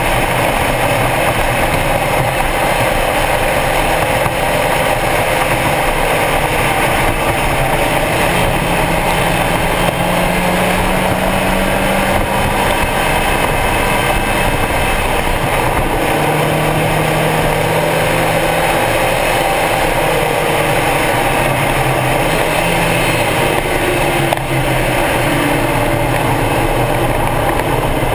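Stock Mazda Miata's four-cylinder engine running hard at speed, its note rising and dropping as it accelerates and changes gear, over heavy wind and road noise.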